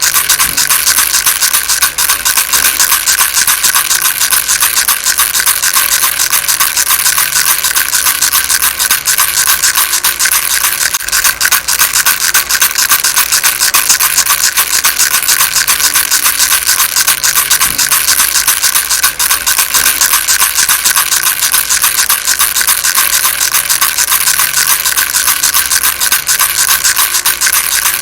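Baby rattle shaken without a break: a dense, fast stream of small pellets clicking, steady and even.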